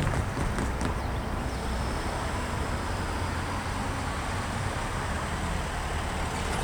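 Steady low rumble of engines, from road traffic or the distant approaching train, with a few faint clicks in the first second.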